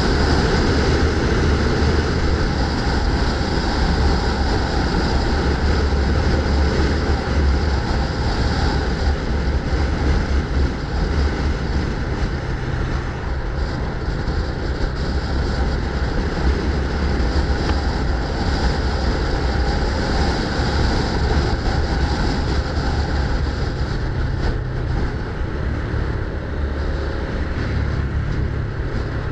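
Steady rumble of wind and road noise from riding along a street, with no distinct single event.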